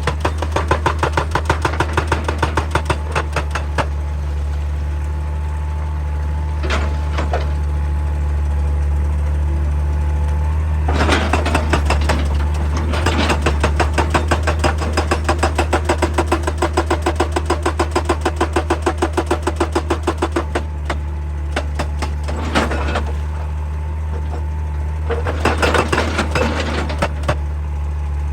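Excavator diesel engine running steadily while a hydraulic breaker hammer pounds rock in rapid repeated blows. The hammering comes in several runs with pauses between, at the start, through the middle and again near the end.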